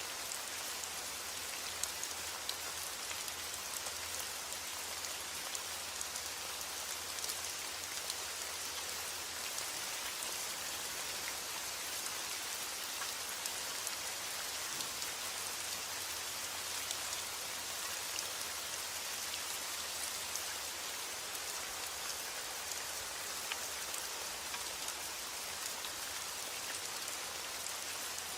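Steady heavy rain: a dense, even hiss with many scattered sharp taps of individual drops.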